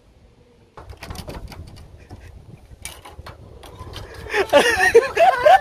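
Rapid, irregular clicking and rattling for a few seconds, then loud excited voices and laughter near the end.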